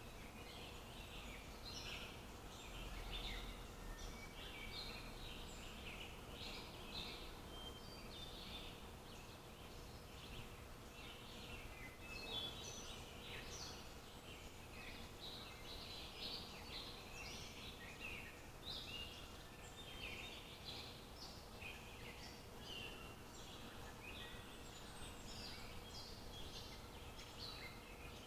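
Wild birds chirping and singing in dense, overlapping short phrases throughout, over a faint steady hum.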